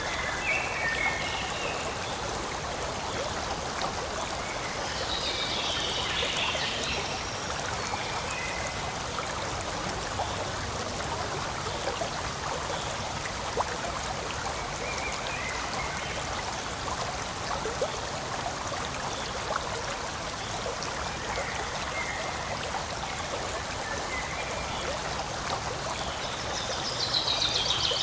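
Forest stream flowing and trickling steadily, with short high chirps now and then above the water.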